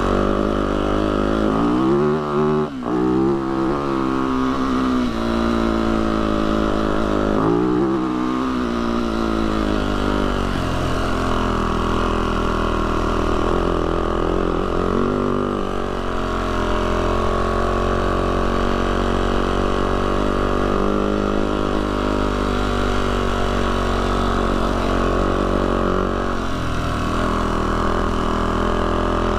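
Yamaha YZ450F dirt bike's single-cylinder four-stroke engine running while riding, its revs rising and falling twice in the first several seconds, then holding fairly steady.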